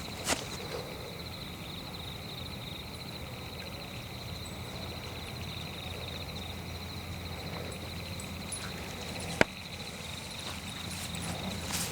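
Night insects, crickets, trilling steadily in a forest, with a small click just after the start and one loud, sharp crack about nine seconds in.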